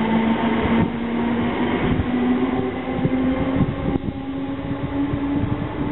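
Electric multiple-unit train running past, its motor hum rising slowly in pitch as it gathers speed, over a rumble and irregular knocks from the wheels on the track.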